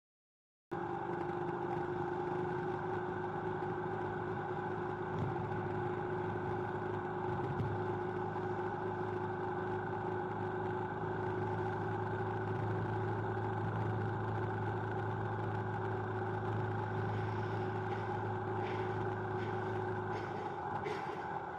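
Steady engine hum and road noise of a slow-moving vehicle in traffic, heard from inside the vehicle. It starts abruptly about a second in, and its low hum drops away near the end, when a few faint ticks come in.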